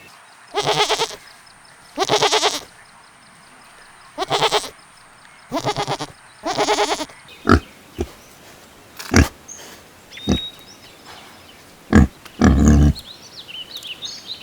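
Goats bleating: about five wavering, rough calls in the first half, then shorter, sharper calls and one more bleat near the end.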